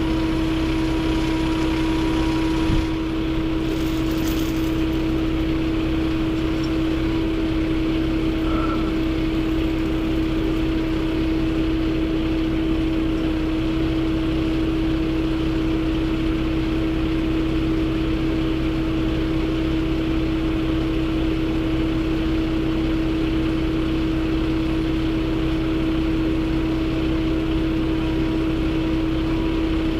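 Steady engine drone and road noise heard from inside a moving vehicle's cab, holding an even speed with a constant hum.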